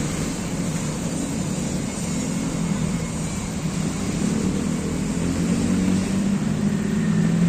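Steady low rumble of road traffic that swells slightly near the end.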